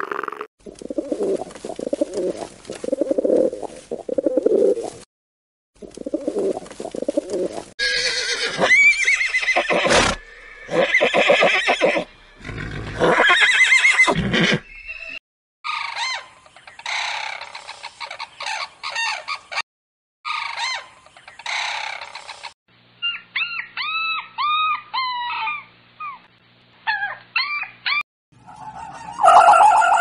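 A string of short animal-call clips with brief gaps between them, mostly chickens, plus a horse neighing. Low pulsing calls open it, louder higher calls follow, and a run of quick, high, arching chirps comes in the last third.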